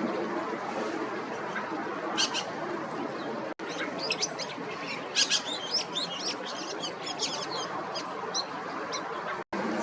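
Dusky thrush calling: a short cluster of high, clipped call notes, then a dense run of them over the latter half, against a steady background hiss.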